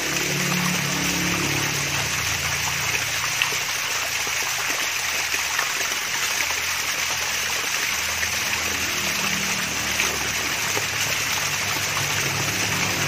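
Water from a small waterfall splashing and trickling steadily.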